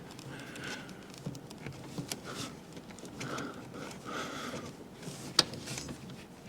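Faint handling noises of car parts being fitted by hand: light clicks and rustling, with one sharper click about five seconds in.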